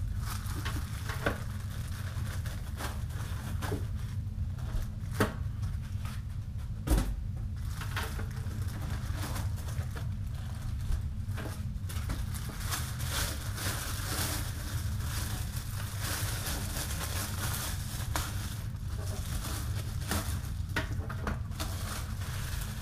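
Packaging being handled while unboxing: crinkling plastic and cardboard with scattered clicks and a few sharper knocks, over a steady low hum.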